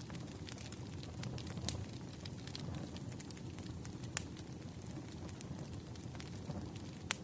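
Wood fire crackling: scattered sharp snaps and pops over a low, steady rumble, with one louder pop about four seconds in.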